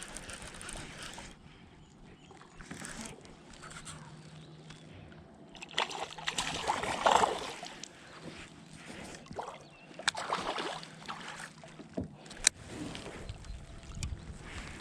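Water sloshing and splashing against a kayak in uneven bursts, with a couple of sharp clicks or knocks near the end.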